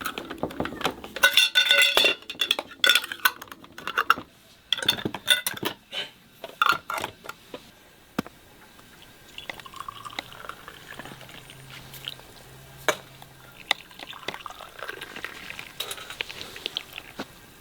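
Dishes and cutlery clinking and knocking, busy through the first half, then only the odd clink.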